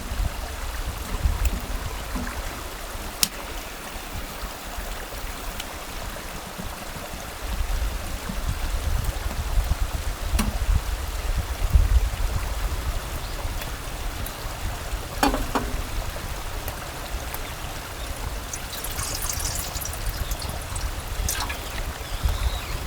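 Mountain stream flowing steadily, a continuous rush of water, with a few light clicks and knocks now and then.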